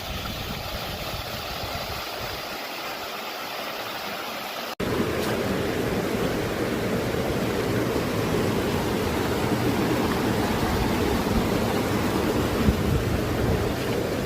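Steady rush of running water. About five seconds in it cuts abruptly to a louder, fuller rush.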